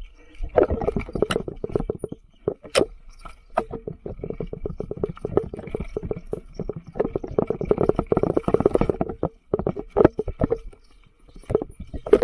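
Mountain bike riding down a rough trail: tyres crunching over rocks and gravel, with a dense clatter of knocks and rattles from the bike. It eases off briefly twice near the end.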